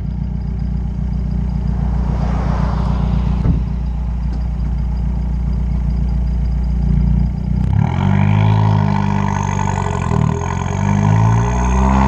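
Exhaust of a tuned 2013 Fiat 500 Abarth's turbocharged 1.4-litre four-cylinder, heard right at the tailpipe: running steadily at first, then from about eight seconds in revving, its pitch rising and dropping repeatedly.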